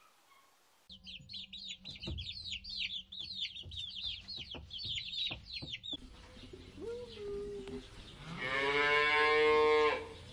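Chicks peeping rapidly in a dense chorus of short falling chirps over low clucking for about five seconds. Then the sound changes to cattle: a short low call, then one long cow moo near the end, the loudest sound.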